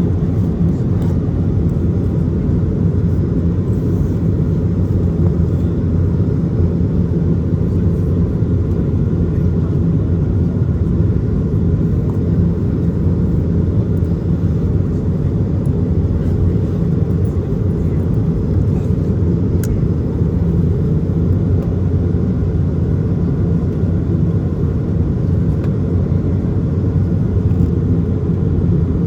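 Steady low cabin rumble inside an Airbus A220 in flight: engine and airflow noise, unchanging throughout.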